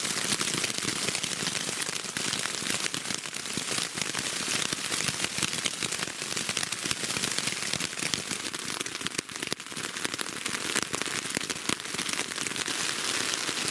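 Rain falling on tent fabric, heard from inside the shelter: a steady, dense patter made of many small, sharp drop hits.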